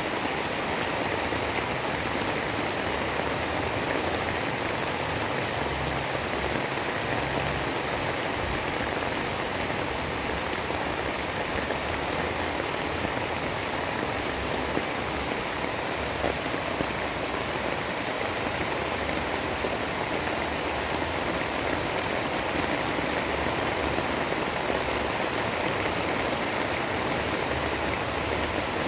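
Steady storm ambience: an even, unbroken hiss of rain-like noise with no thunder or other distinct sounds.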